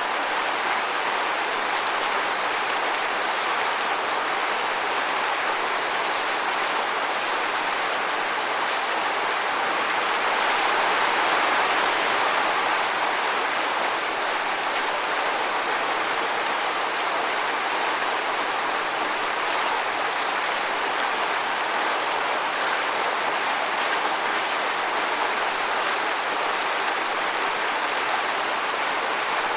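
Waterfall: steady rushing and splashing of falling water, swelling slightly about a third of the way in.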